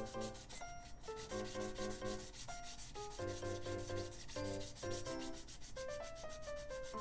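Rapid, even rubbing strokes of sanding on a small 3D-printed model part, over background music with melodic notes.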